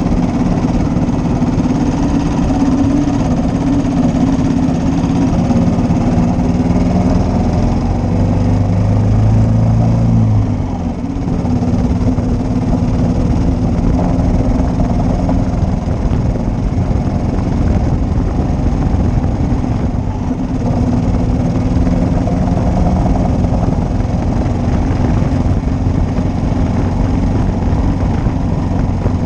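1941 Matchless G3L's 350 cc single-cylinder four-stroke engine running as the motorcycle is ridden. The engine note climbs for a couple of seconds, then falls away suddenly about a third of the way in, and dips again about two-thirds in.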